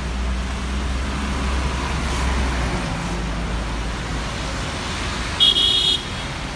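Road traffic: steady engine and tyre noise with a low rumble of a passing vehicle, then a car horn sounding once briefly about five and a half seconds in.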